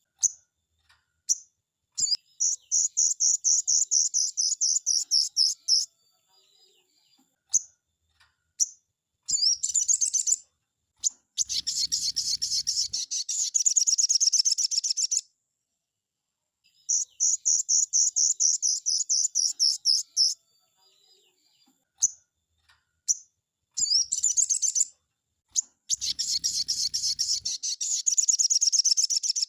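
Sogon bird singing: fast, high chattering runs of notes in phrases one to four seconds long, separated by short pauses and single sharp call notes, the sequence coming round again about halfway through.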